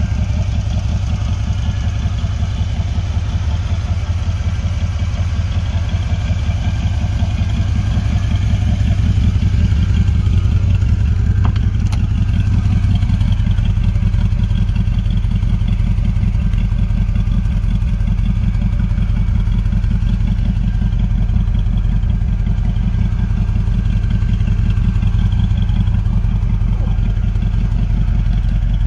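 1969 Corvette's 350 cubic-inch small-block V8 idling steadily through its factory side-exit exhaust pipes, a low, rapid, even pulsing.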